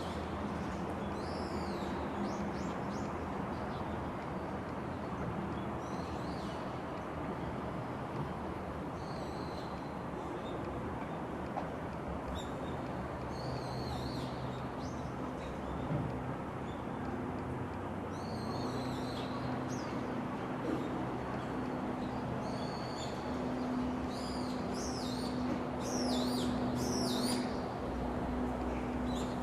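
Small birds chirping and twittering in short repeated phrases over steady outdoor background noise, the chirps coming thicker toward the end. A low steady hum joins in about halfway through.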